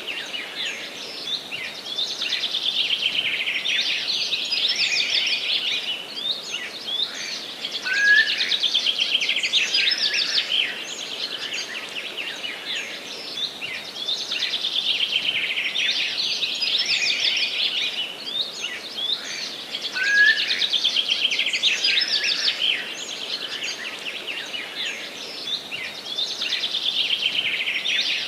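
Songbirds singing in a forest: fast trilling song phrases recur every few seconds over a steady background hiss.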